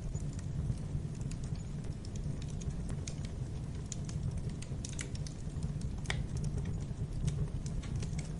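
Wood fire burning in a fireplace: a steady low rumble with irregular sharp crackles and pops, one louder pop about six seconds in.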